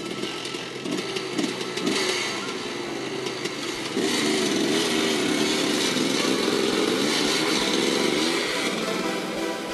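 Dirt bike engine revving: a few short throttle blips, then held at higher, steadier revs from about four seconds in as the bike moves off.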